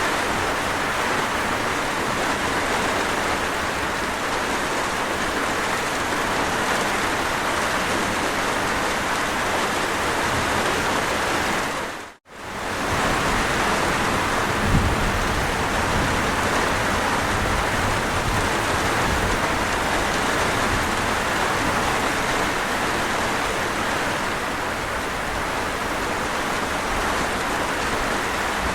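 Steady, dense rainfall: an even hiss of many drops falling onto a surface. About twelve seconds in it drops out to near silence for a split second, then resumes.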